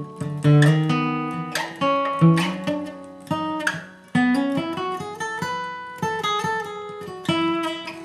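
Acoustic guitar played bluegrass style: a few strummed chords, then a run of single picked notes that steps up in pitch about halfway through, and more picked notes after it.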